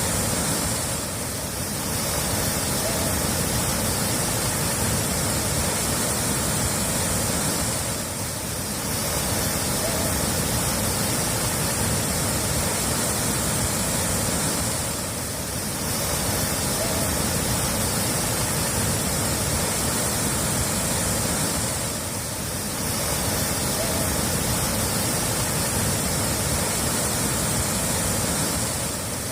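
Steady rushing-water sound effect, an even hiss with no drips or splashes standing out. It dips briefly in loudness about every seven seconds, as a short loop repeating.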